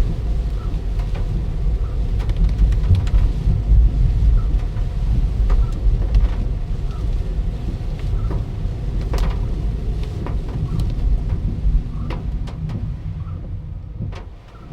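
Gusty typhoon wind rumbling on the microphone, with scattered sharp ticks like raindrops striking; it dies away near the end.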